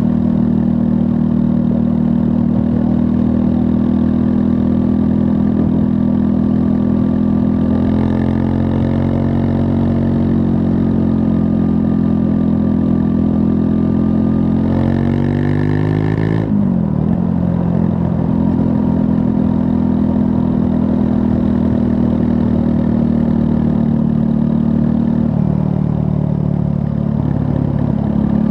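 Triumph Scrambler 400 X's 398 cc single-cylinder engine running under way, engine speed steady at first, then climbing for a couple of seconds past the middle before dropping sharply about 16 seconds in and settling steady again.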